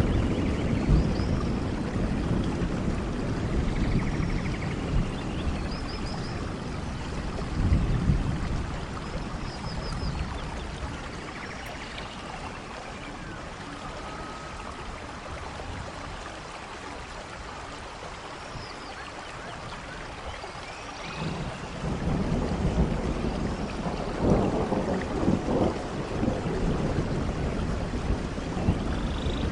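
Steady rainfall with low rolling thunder. The rumble fades away about a third of the way through and builds again about two-thirds in.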